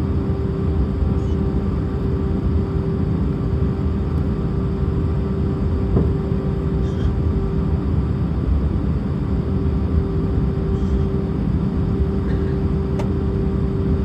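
Steady cabin noise of an Airbus A319 airliner in flight: engine drone and rushing air with a low rumble and a steady hum, and a couple of faint clicks.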